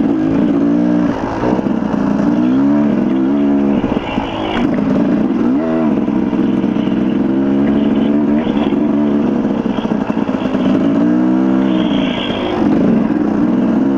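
Dirt bike engine ridden along a trail, its pitch rising and falling again and again with throttle and gear changes.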